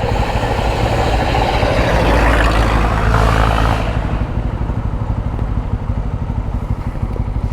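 Motorcycle engine running steadily while being ridden, with a louder rush of noise swelling and fading between about two and four seconds in.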